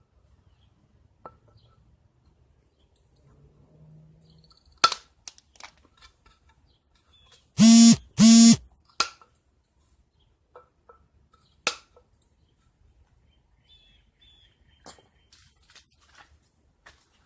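Two loud, short beeps of steady pitch, close together, just before the middle. Scattered sharp clicks and knocks come before and after them.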